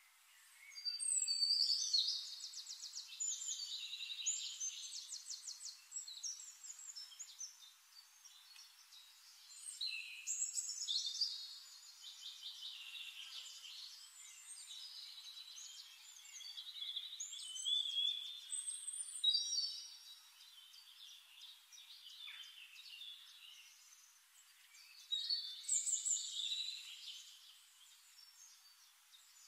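Songbirds singing: four bouts of chirping and fast trilling songs, with quieter twittering between them.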